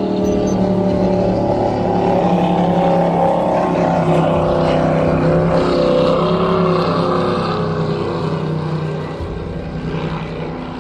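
Motorboat engine running steadily with a low drone, easing off somewhat near the end.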